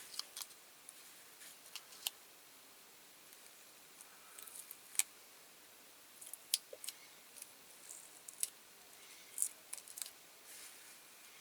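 Scattered light clicks and small scrapes from handwork on a freshly painted diecast toy car body, as its masking is taken off.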